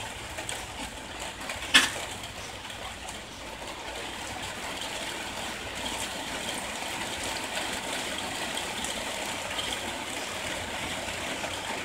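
Rain falling steadily, an even hiss of water on the yard, with one sharp click about two seconds in.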